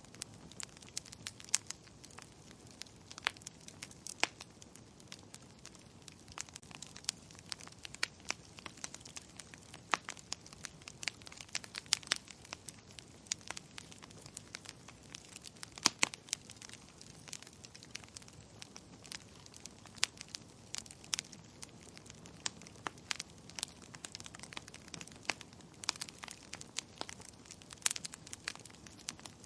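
Wood fire crackling in a fireplace: sharp, irregular pops and snaps, several a second, over a soft steady hiss.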